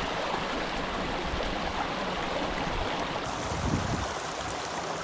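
Running water: a steady, even rushing, like a small stream flowing.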